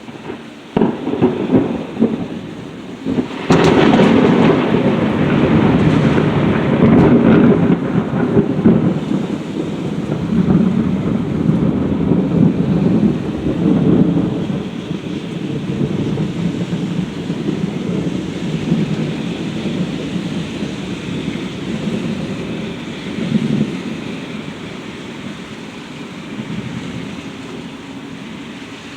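Thunder during a severe thunderstorm: a first crack under a second in, then a sharp, loud thunderclap about three seconds in, followed by a long rumble that slowly fades, over steady rain.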